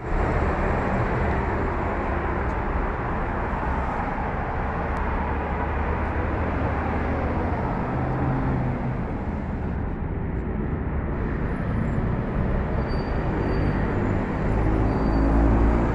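A car's steady low rumble of engine and road noise, swelling a little near the end.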